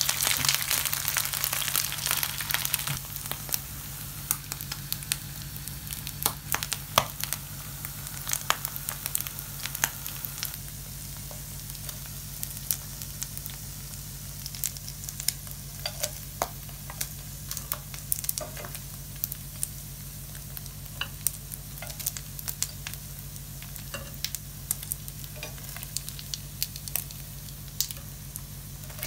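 Salmon skin frying in hot oil in a stainless steel pan. There is a loud burst of sizzling for the first few seconds as fresh pieces go into the oil, then it settles to a steady crackle with scattered sharp pops. A steady low hum runs underneath.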